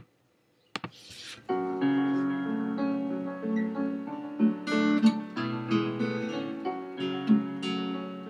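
A few short clicks, then an acoustic guitar is strummed from about a second and a half in, playing the F♯ minor, D and E major chord progression in a down-up strumming pattern.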